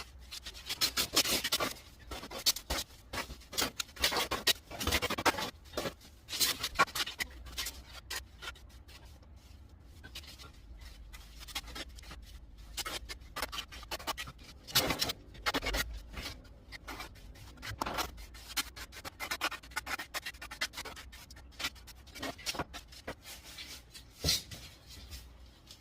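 Plastering trowel scraping and smoothing cement mortar on a yard floor, in irregular strokes that come in clusters.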